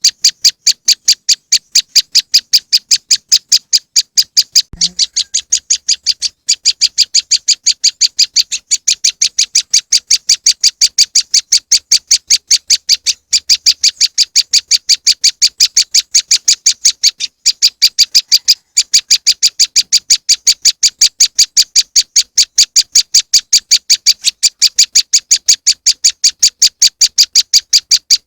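Prenjak lumut bird-lure recording: a rapid, evenly repeated series of sharp high chip notes, about three a second, with a few brief breaks.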